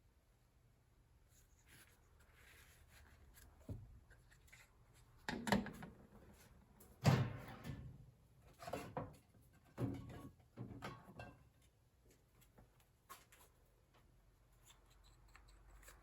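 Scattered knocks and rubbing of hard parts being handled, about eight separate sounds, the loudest about seven seconds in.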